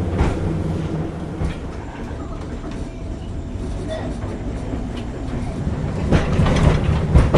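Electric tram running along its track: a steady low rumble with sharp wheel clicks over the rail joints, growing louder about six seconds in.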